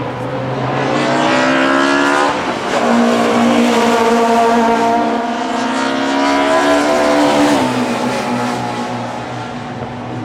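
Classic DTM touring race car engine accelerating hard and shifting up through the gears. The pitch climbs, then drops sharply at each upshift, three times, before the note settles lower as the car pulls away.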